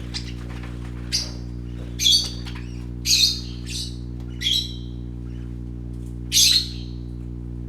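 Small pet parrots giving short, harsh squawks, about six of them spaced a second or so apart, over a steady low hum.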